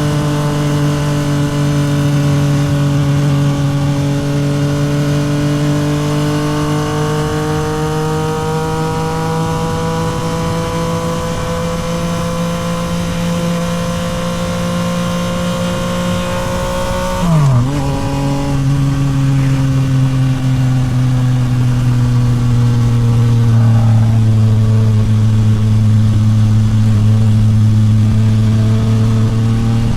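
Yamaha MT-09 SP's 890 cc inline three-cylinder engine through a Toce full exhaust, running on the road with revs slowly climbing. About seventeen seconds in the pitch drops sharply with a brief louder blip as it shifts up a gear, then it carries on at lower revs, easing off slowly.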